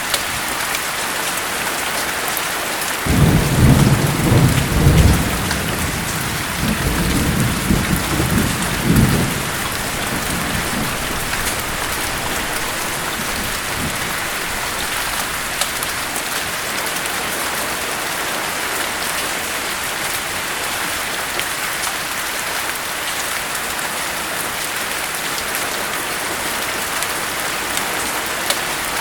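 Steady heavy rain with a roll of thunder about three seconds in, rumbling low for several seconds and fading out by about ten seconds.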